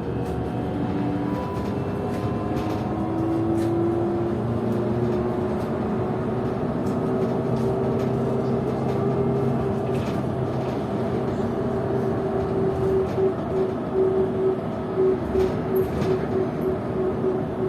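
PKTS-6281.01 'Admiral' trolleybus under way, heard from inside. The whine of its IGBT traction inverter and AC motor rises in pitch as it picks up speed and then holds steady over road rumble and body rattles. Near the end a tone pulses about twice a second.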